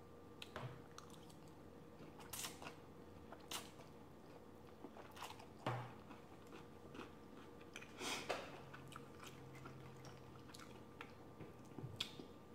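Faint, close-up chewing and mouth sounds of someone eating, with scattered soft clicks and a few crunches.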